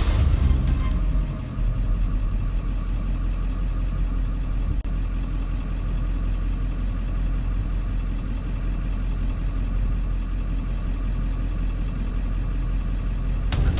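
Heavy diesel truck engine running steadily at a constant low speed, a deep even rumble with no revving.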